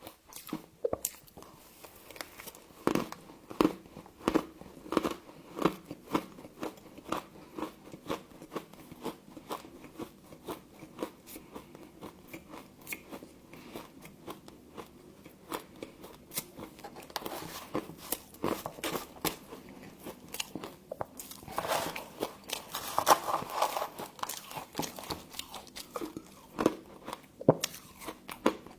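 Close-up crunching and chewing of frost scraped from a humidifier: crisp, crackly bites in a steady rhythm, with a denser stretch of crunching past the middle.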